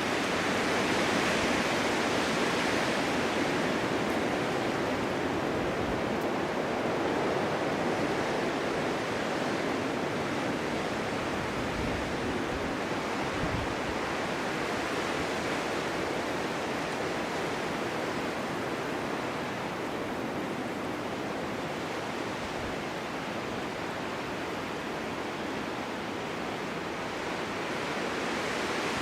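Snowstorm wind blowing steadily, a continuous rushing that swells a little in the first few seconds, eases in the second half and picks up again near the end.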